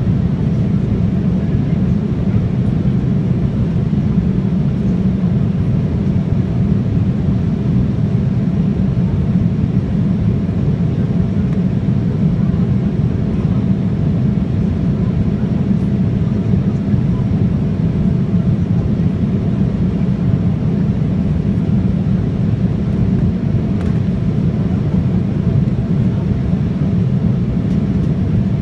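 Steady cabin noise of an Embraer 175 in flight: the low, even roar of its GE CF34 turbofans and the airflow, with a faint steady hum above it.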